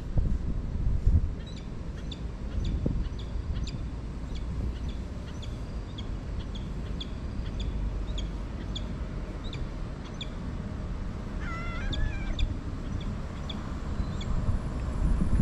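Small birds chirping in short high notes again and again over a low steady rumble, with one wavering call lasting about a second near the twelve-second mark.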